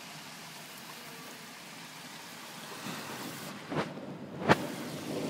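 Heavy rain pouring down steadily, with one short sharp knock near the end.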